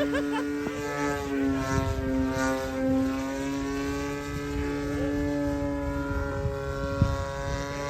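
Single-cylinder 20cc gasoline engine of an RC model airplane running fast and steadily, its pitch wavering a little, with one sharp click about seven seconds in.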